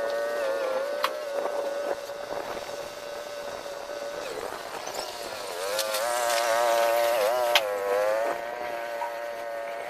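Small gasoline engine of a log splitter running steadily, then louder, its pitch dipping several times as it comes under load, with a few sharp cracks about a second in and near the end.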